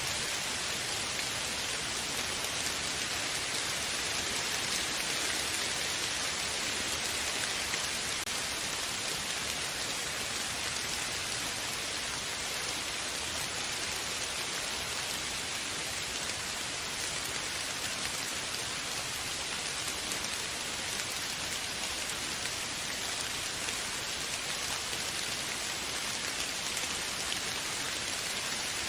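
Steady rainfall: an even hiss of rain falling on surfaces, with no change in strength and no thunder.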